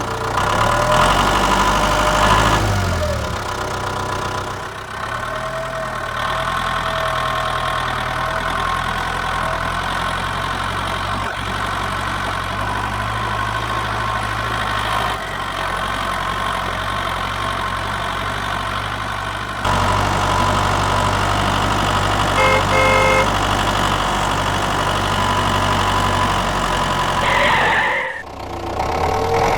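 An engine or motor running steadily. Its note shifts about five seconds in and again about twenty seconds in, and it breaks off briefly near the end.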